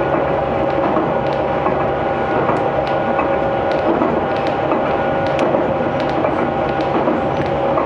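Aizu Railway 6050 series electric train running at speed, heard from inside the passenger car: a steady rumble of wheels on rail with a few steady whining tones and scattered light clicks.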